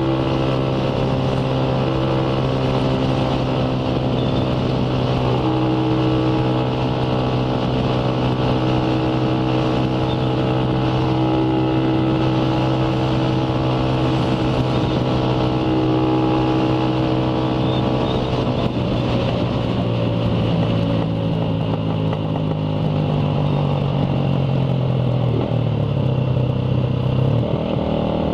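Motorcycle engine running at a steady cruising speed, then its note falls over several seconds as the bike slows, with a couple of brief drops near the end, over wind and road noise.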